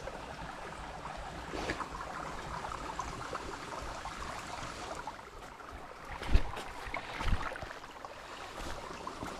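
Jungle creek water running steadily, with two heavy thumps about six and seven seconds in.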